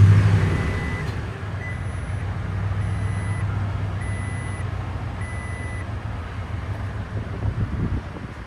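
Toyota Tundra's 5.7-litre V8 with TRD exhaust just started, loudest as it catches and then settling into a steady idle. Over it the truck's electronic warning chime beeps five times, about a second apart.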